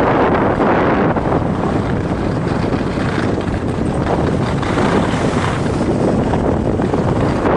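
Loud, steady rush of wind buffeting a skier's camera microphone while moving downhill.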